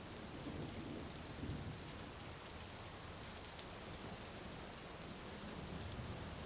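Heavy rain falling steadily, with a low rumble of thunder in the first couple of seconds that eases off.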